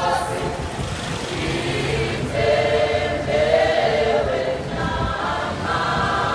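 Background music: a choir singing gospel-style with sustained, held notes.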